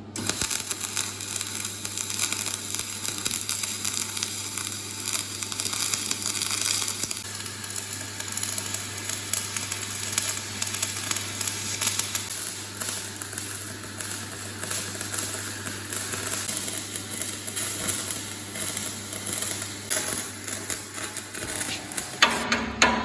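Welding arc crackling and sizzling steadily, with a low hum underneath, as steel flat bar is welded. Near the end, a run of hammer strikes on metal begins.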